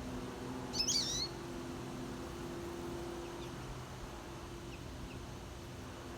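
A small songbird gives one short, loud burst of call notes about a second in, jumping quickly up and down in pitch, followed later by a few faint chips. A steady low hum runs underneath.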